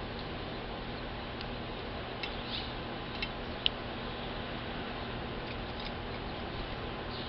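A few short, high chirps from a small bird at a seed feeder, over a steady hiss; the sharpest chirp comes about three and a half seconds in.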